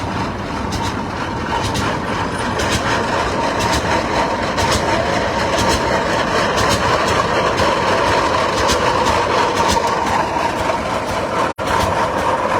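Big antique Aultman-Taylor gas tractor with a four-cylinder horizontal engine, running steadily as it passes. There is a brief break in the sound near the end.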